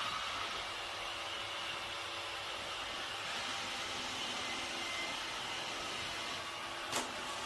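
iRobot Roomba Combo j5 robot vacuum running: a steady hiss of suction and motor with a faint low hum, and a brief click about seven seconds in.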